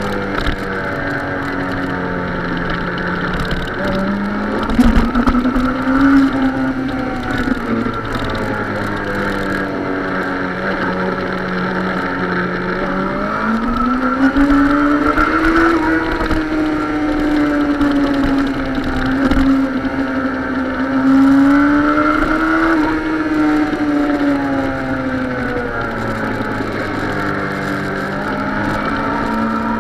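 Suzuki sport motorcycle engine heard close up from the bike's own camera, its revs rising and falling three times as the throttle opens and closes, over steady wind and road noise.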